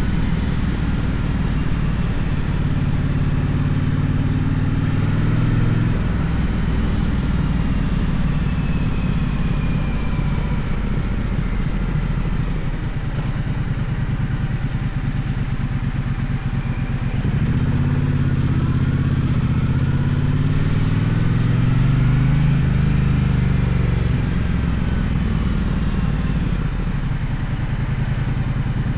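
Gaokin GK1200 motorcycle engine running under way, its revs rising and falling several times as the rider accelerates and shifts gears.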